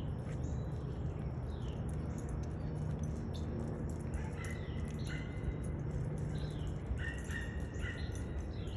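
Small birds calling: short high whistled notes and quick falling chirps, more of them in the second half, over a steady low rumble of background noise.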